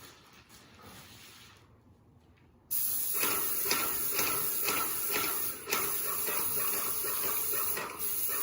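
Paint sprayer spraying paint: after a quiet start, a loud, steady hiss begins suddenly about a third of the way in, with two brief drops as the spray is interrupted.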